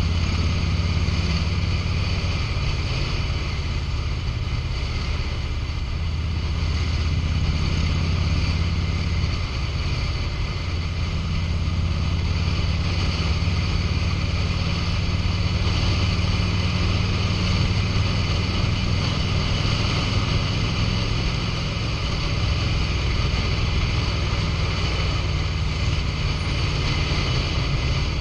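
A 2005 Harley-Davidson Road King's Twin Cam 88 V-twin engine running at a steady low pace. Its deep note shifts a little with the throttle, over a steady rush of wind noise.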